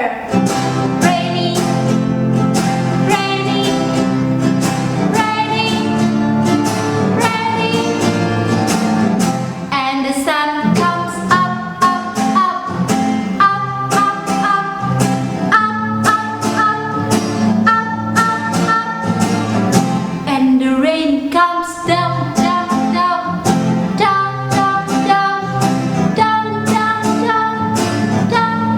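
A woman singing a children's song with instrumental accompaniment.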